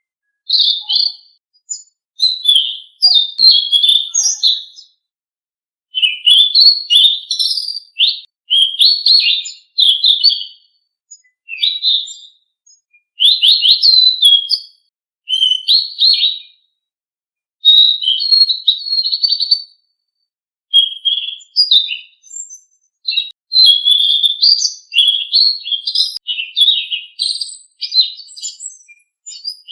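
Selendang biru songbird singing: loud, rapid twittering phrases of about one to two seconds, separated by short pauses, with sharp high-pitched chips mixed in. The song is a masteran recording meant to make caged birds of the same kind sing back.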